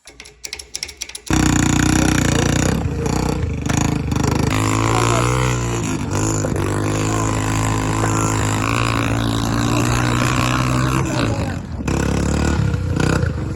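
Dirt bike engine running and revving, cutting in loudly about a second in after a few light clicks. Its pitch rises and falls through the middle and dips briefly near the end.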